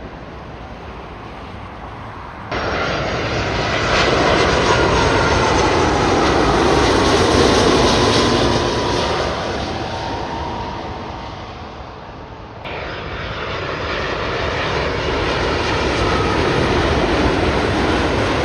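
Jet airliners passing close by, each one's engine noise swelling to a peak and fading with a faintly falling whine. The sound steps up suddenly about two and a half seconds in and again about twelve and a half seconds in, as a new pass starts.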